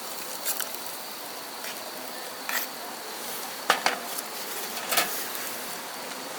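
Camp gear being handled: several short, sharp clinks and knocks, the loudest a quick pair a little under four seconds in and another at about five seconds, over a steady hiss and a faint, high, steady insect whine.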